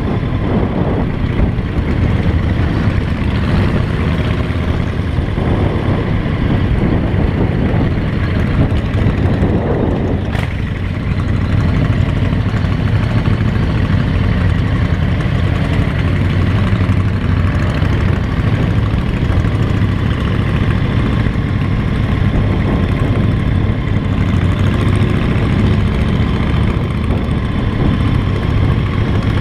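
Motorcycle engine running at a steady pace while riding. A single sharp click about ten seconds in.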